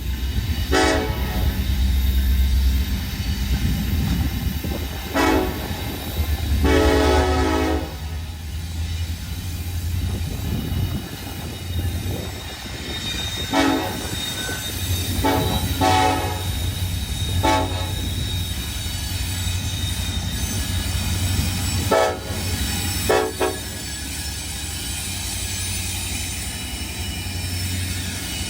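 Norfolk Southern freight train led by two SD70ACE diesel locomotives sounding its air horn in a series of blasts, mostly short, with one longer blast about seven seconds in, over the steady low rumble of the diesel engines and the rolling train.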